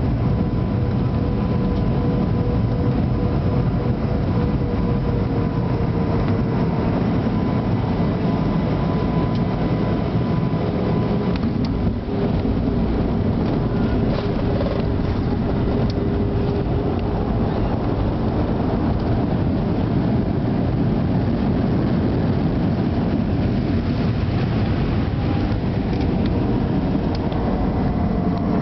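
Airliner cabin noise during the landing: a steady rumble of the jet engines and rushing air, with a faint engine whine that slowly falls in pitch and a few light knocks near the middle.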